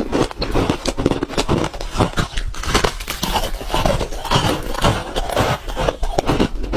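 Ice being bitten and crunched between teeth close to the microphone, a rapid, unbroken run of crunches.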